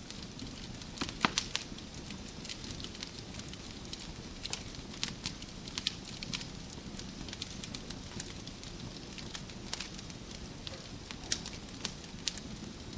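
Wood fire burning in a fireplace, with a steady low rush and irregular sharp crackles and pops from the logs, the loudest cluster of pops about a second in.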